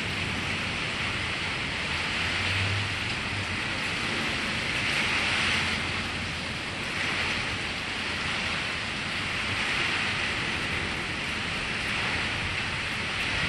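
Steady rain falling on a carport roof, an even hiss.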